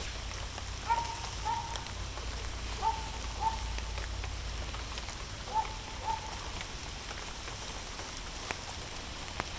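Steady rain falling on surfaces. Three pairs of short high chirps sound about a second, three seconds and five and a half seconds in.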